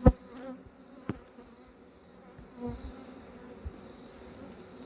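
Honeybees buzzing around an open hive, with a sharp knock right at the start and another about a second in.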